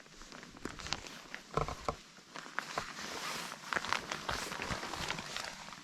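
Footsteps and rustling of someone walking, a run of irregular clicks and crackles.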